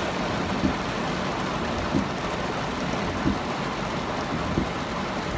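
Heavy rain pelting the roof and windows of a car, heard from inside the cabin as a steady hiss. A soft low thump repeats about every second and a quarter.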